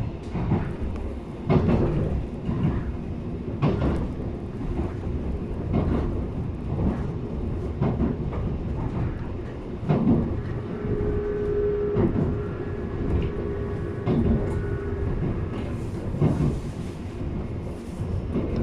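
Running noise inside a JR East 719 series electric train car on the move: a steady rumble of wheels on rail, with sharp clacks every second or two from the rail joints. A steady hum comes in near the middle and fades a few seconds later.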